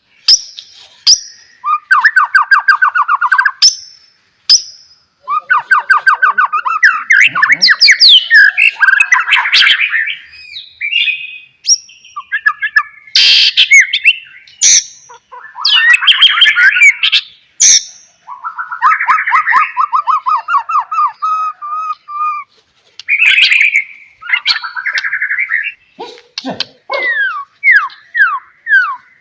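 White-rumped shama (murai batu) singing loudly in a varied song of fast rattling trills, sharp high whistles and chattering phrases, with short pauses between them. Near the end it gives a series of quick down-slurred notes.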